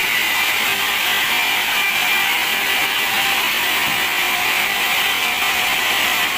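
Large band sawmill running steadily, its blade sawing through a teak log: a loud, even noise with a faint high whine that doesn't change.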